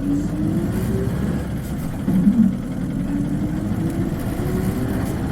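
Isuzu Cubic KC-LV380N city bus engine heard from inside the cabin, accelerating with a rising whine that climbs in pitch twice, the second time more slowly. This bus is known for an unusually high-pitched engine sound under acceleration.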